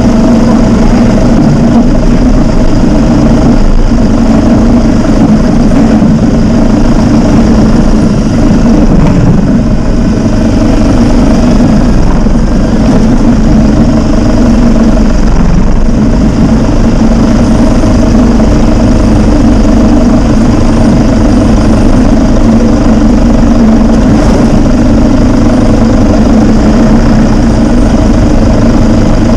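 Vehicle engine running steadily and loud, a constant drone that hardly changes in pitch.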